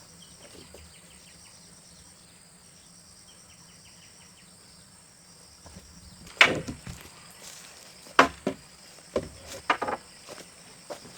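Five sharp, irregular knocks on timber, the first and loudest about six seconds in, over a steady high drone of insects.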